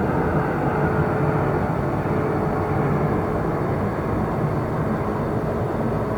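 Train station ambience: a steady low rumble with a few faint humming tones, its higher hiss slowly fading.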